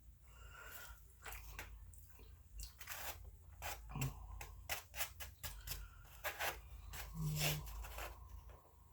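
A person eating close to the microphone: irregular chewing and crunching with quick clicks and crackles.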